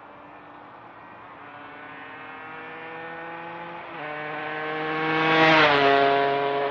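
2008 Aprilia RS 125, a 125 cc two-stroke single, de-restricted with a full Arrow exhaust system, riding past at speed. Its engine note grows louder as it approaches, with a shift in the note about two-thirds of the way through, and drops in pitch as it passes close, near the end, then fades as it moves away.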